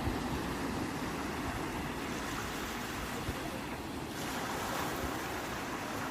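Sea waves washing onto the shore in a steady rush of surf, a wave breaking about four seconds in, with some wind on the microphone.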